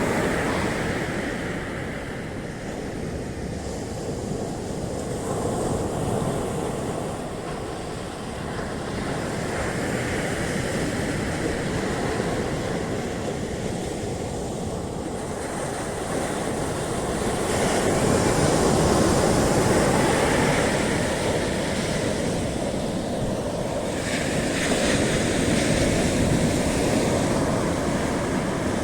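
Ocean waves breaking and washing on the beach, a continuous surf rush that swells and eases every few seconds, with some wind noise on the microphone.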